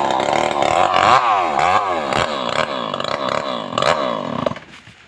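Stihl MS381 two-stroke chainsaw running hard, its engine speed dipping and climbing back over and over. It drops away suddenly about four and a half seconds in.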